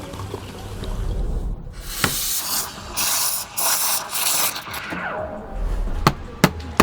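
Espresso machine steam wand hissing in several short bursts. Three sharp clicks near the end.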